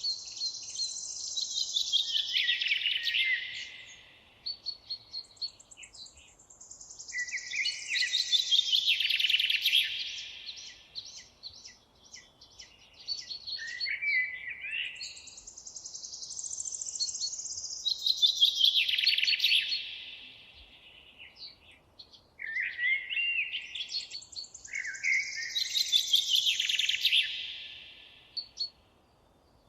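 A songbird singing: four long phrases, each a few seconds of fast notes falling in pitch, repeated about every seven to eight seconds, with short chirps between them.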